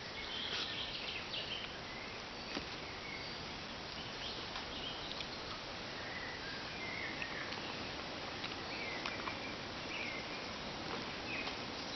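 Outdoor woodland ambience: a steady background hiss with scattered short bird chirps.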